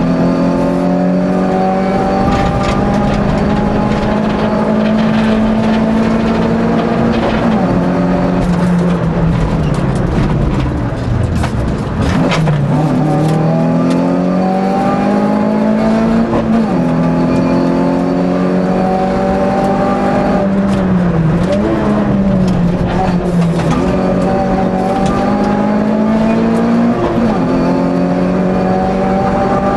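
Hillclimb race car's engine heard from inside the cabin, revving hard: the pitch climbs through each gear and drops at every shift. About ten seconds in the revs fall away, then climb again from around twelve seconds.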